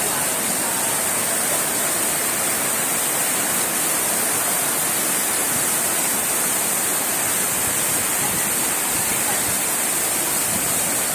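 Steady rush of flowing floodwater, an even hiss with no change in level.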